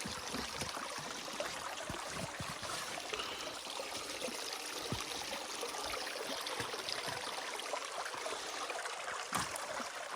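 Shallow rocky creek running, a steady rush of water, with scattered small knocks and one sharper knock about nine seconds in.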